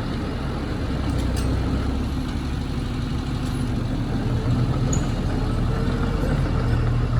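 Heavy diesel engine of construction machinery running steadily at low revs.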